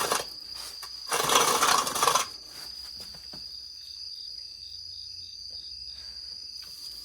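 Crickets chirring in a steady high trill, with a short run of fainter chirps about four to six seconds in. Early on, two loud hissing bursts of noise of about a second each stand out above them.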